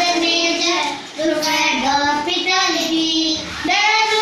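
A child singing a school poem in a high voice, with long held notes and brief pauses between phrases.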